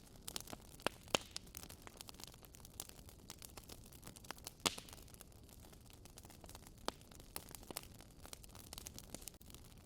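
Wood fire burning in a fireplace: irregular crackles and pops over a low steady hiss, with a few sharper pops about a second in and the loudest one near the middle.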